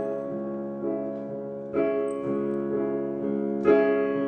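Piano or electric keyboard playing a few held chords, with new notes struck now and then and no singing over them.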